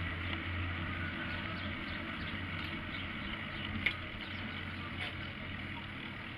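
Street traffic and road noise, with a low engine hum that stops about a second in and a single sharp click near the middle.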